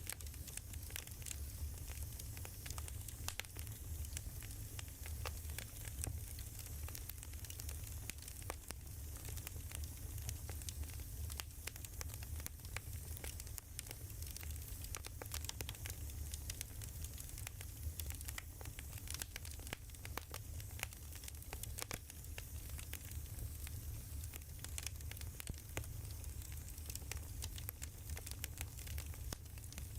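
Wood fire crackling: a steady scatter of small irregular pops and snaps over a low rumble and a soft hiss.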